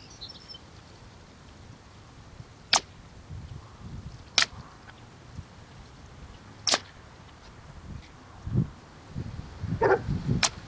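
Air Venturi Avenger .22 regulated PCP air rifle firing: four sharp shots a couple of seconds apart, with duller handling knocks between the last two.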